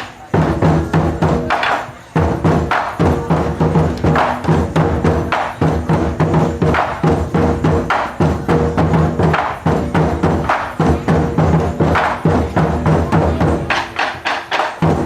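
Taiko drum ensemble playing a fast, driving rhythm of deep drum strikes, with a short break about two seconds in.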